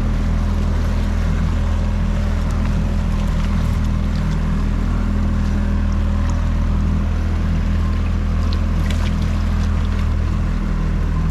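Outboard motor of a small inflatable boat running steadily with an even, low drone, heard from on board with wind and water noise over it.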